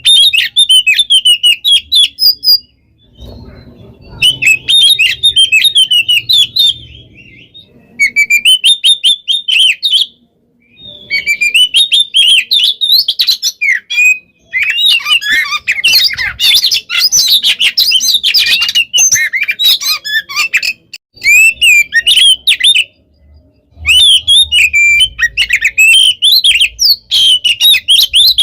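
Oriental magpie-robin (kacer) singing a loud, rapid, varied song of chirps and whistles. The song comes in phrases of a few seconds, separated by short pauses, and is densest in the middle.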